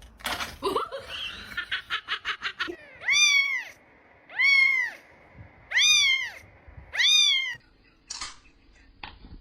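A domestic cat meowing four times in a row, each meow rising and then falling in pitch, after a quick run of clicks.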